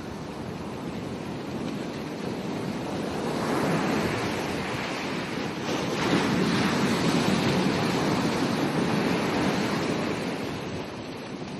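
Ocean waves breaking on a beach: the surf swells about three seconds in and again, louder, about six seconds in, then eases off, with some wind noise on the microphone.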